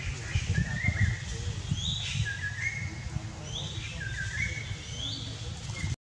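A songbird singing the same short phrase over and over, about once a second, each phrase a quick pair of whistled notes, one lower and one higher. Underneath runs a steady low rumble, with a few thumps in the first second.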